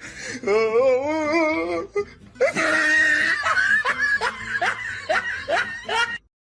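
A person laughing loudly: first a quavering, wavering laugh, then a run of rhythmic bursts of laughter about two a second, which cuts off abruptly near the end.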